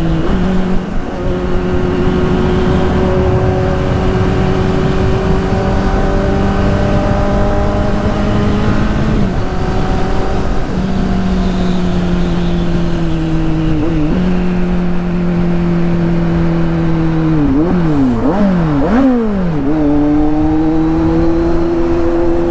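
Kawasaki Z800 inline-four with a straight-through exhaust running loudly under way. Its steady note slowly sinks and breaks off a couple of times. Near the end come several quick rev blips, rising and falling sharply, before it settles back to a steady drone.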